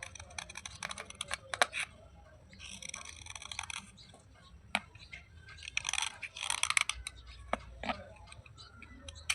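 Crunching and crackling of soft, wet coloured slate pieces, in three short bursts of crackle with single sharp snaps between them.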